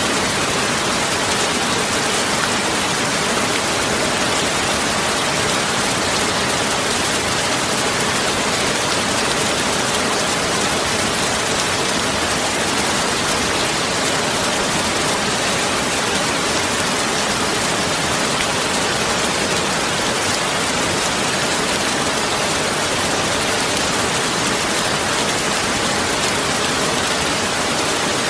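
Heavy rain falling steadily, an even hiss with no breaks and no thunder.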